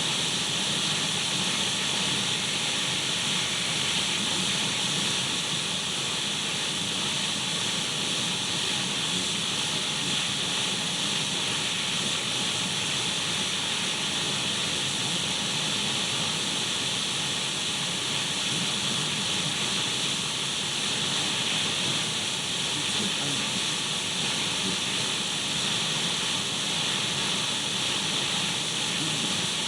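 Untuned radio static: a steady, even hiss, brightest in the upper range, with no change in level.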